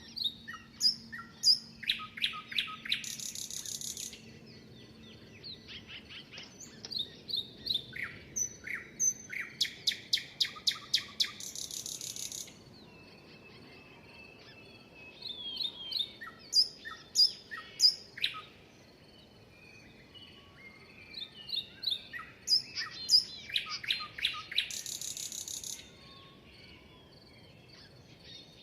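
A songbird singing in repeated phrases, four in all, each a run of chirping notes that ends in a rapid trill, with pauses of a few seconds between them.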